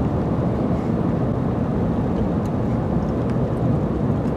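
Steady road and engine noise heard inside the cabin of a car driving along a highway.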